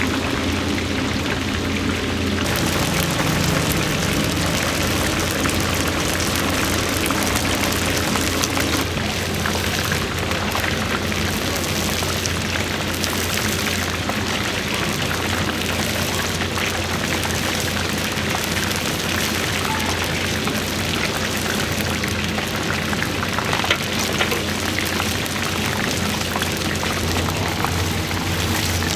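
Oil sizzling and crackling steadily in a deep fryer, over a steady low hum.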